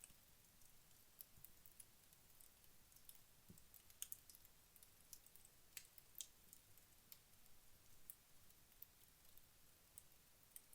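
Faint, sparse crackles and ticks from a wood fire in a fireplace that has burned down to its embers, irregular, with a few sharper pops in the middle.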